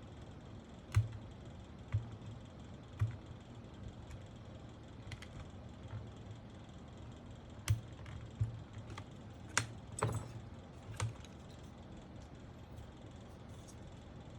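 Irregular clicks and clacks from a mechanical keyboard being handled and pressed, about a dozen, unevenly spaced, a few of them louder.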